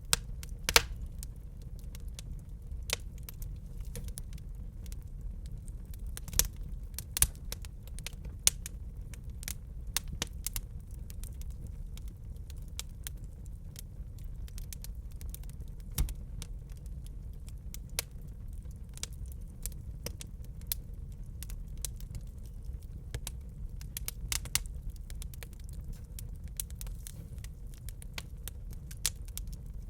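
Wood fire burning in a fireplace: a steady low rumble with irregular sharp crackles and pops. Louder snaps come about a second in, a cluster around 6 to 8 seconds in, and one about halfway through.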